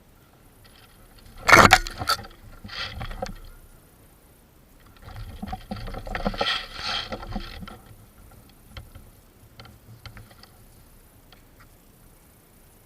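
Rustling and knocking of a person moving through forest undergrowth with their gear, with a sudden loud clatter about one and a half seconds in and a longer stretch of rustling a few seconds later.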